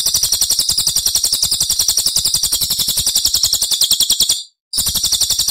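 A songbird's rapid, high-pitched trill of evenly spaced pulses. It breaks off briefly about four and a half seconds in, then starts again.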